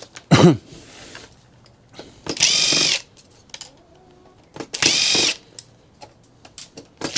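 Cordless drill-driver running in three short bursts about two and a half seconds apart, each spinning up quickly to a steady whine, backing screws out of a PC case, with light clicks of handling between the bursts.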